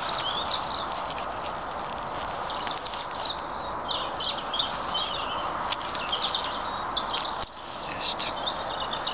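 Small birds chirping in short, high calls over a steady rushing outdoor background noise.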